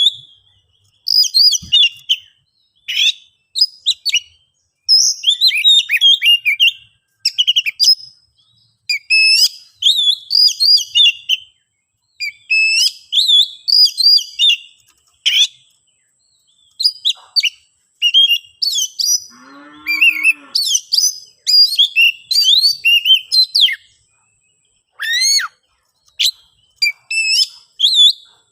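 Oriental magpie-robin (kacer) singing in its agitated fighting mood, loud rapid bursts of varied whistled phrases with short pauses between them, the kind of song used to provoke a rival bird. About twenty seconds in there is a brief lower, harsher sound.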